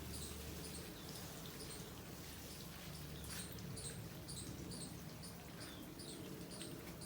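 A small animal calling with short, high-pitched chirps, repeated about twice a second.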